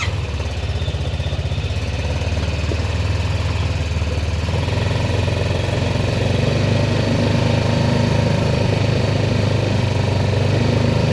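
A vehicle engine running steadily just after starting, its low note shifting about four and a half seconds in.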